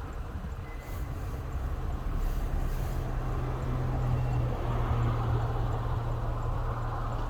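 ChME3 diesel shunting locomotive's six-cylinder diesel engine running with a steady low drone over a broad rumble, growing louder about two seconds in.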